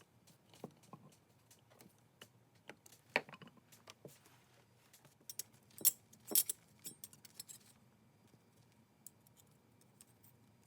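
Metal parts of a Stanley Bailey No. 5 jack plane clicking and clinking as they are handled and fitted together during reassembly: a scatter of sharp knocks, loudest around the middle, fewer in the last few seconds.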